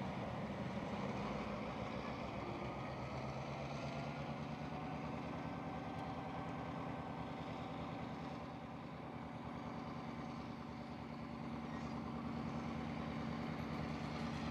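Diesel locomotive engines of an EMD GP9 and FP7 consist running steadily at low throttle, a low engine hum that dips slightly in level about nine seconds in.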